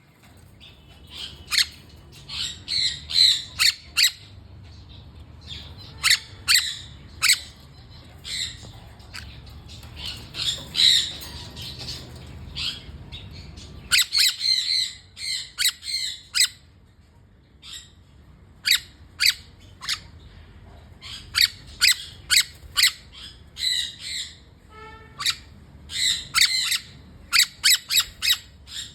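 A pair of garden birds giving short, sharp, squawking calls again and again in quick clusters. A low background hum stops about halfway through.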